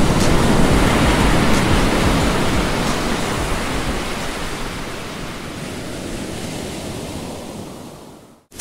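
Ocean surf: a steady rush of breaking and washing waves that gradually fades out over the last few seconds.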